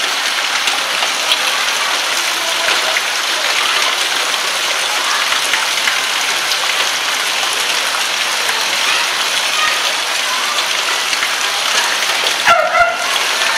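Steady rain falling on a wet concrete alley, an even hiss of raindrops. A brief pitched call sounds near the end.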